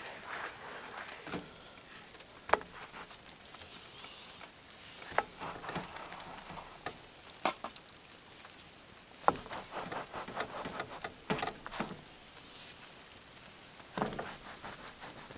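Breakfast frying in a pan: irregular crackling and spattering, with a few sharp clicks and knocks of a utensil against the pan.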